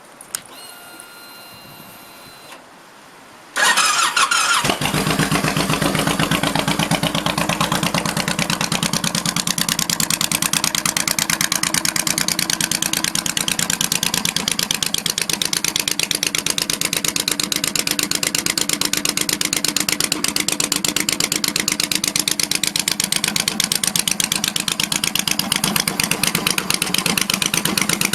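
Honda VTX 1800 V-twin with a Supertrapp Mean Mothers exhaust and Thunder Monster baffles, started on the electric starter after a few quiet seconds: it cranks briefly, catches within about a second, and settles into a loud, steady idle with fast, even exhaust pulses.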